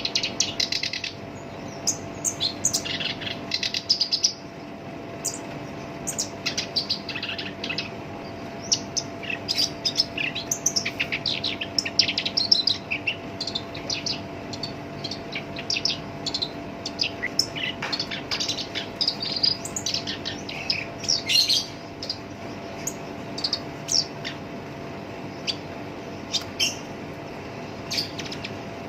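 Black-browed reed warbler singing a rough, harsh song of rapid scratchy chattering notes in quick runs with short pauses. A faint steady hum lies underneath.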